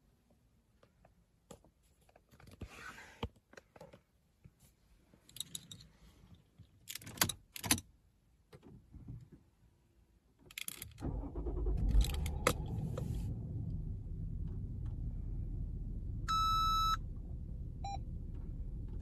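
Keys jangling and small clicks in the car's cabin, then about eleven seconds in the Toyota Brevis's 3.0-litre 2JZ-FSE inline-six starts and settles into a steady idle. An electronic beep sounds for under a second partway through the idle, with a short blip after it.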